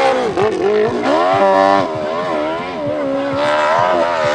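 Big-bore (600 cc and up) hill-climb motorcycle engine at high revs under full load. Its pitch dips twice in the first second as the throttle is worked, then holds high with small surges and wavers.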